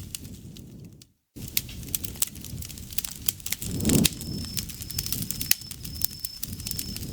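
Campfire crackling, with frequent sharp pops over a low rumble of the flames; the sound cuts out briefly about a second in. From about halfway an insect calls in a run of short, high, evenly repeated trills.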